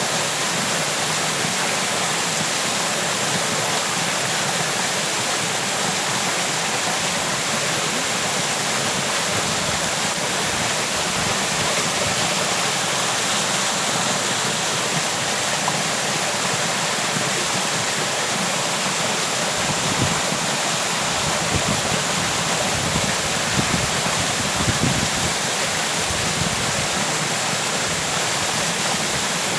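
Waterfall: the steady, even rush of falling water, with a few brief low bumps past the middle.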